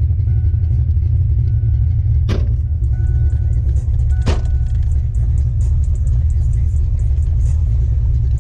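Fox-body Mustang's 5.0 V8 idling with a steady low rumble, heard from inside the car. Two sharp thumps about two seconds apart break in, a couple of seconds in and again past the middle.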